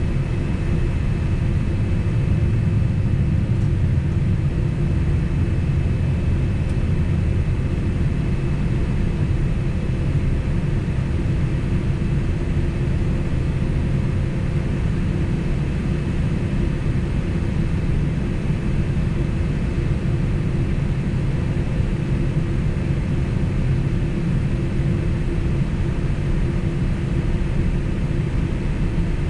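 Cabin noise inside a Boeing 767 airliner on the ground before takeoff: a steady, even rumble of engines and air conditioning with a faint high whine running through it.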